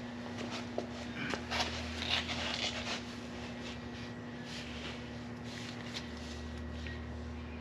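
Light clicks and rustling of parts being handled, clustered about one to three seconds in, over a steady background hum.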